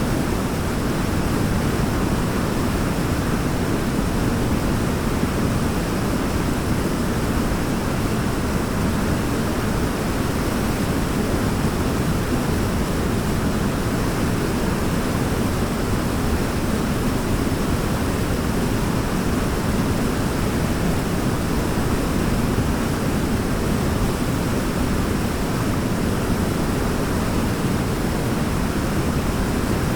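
A waterfall's falling water making a steady, even rushing, weighted towards the low end, with no change over the whole stretch.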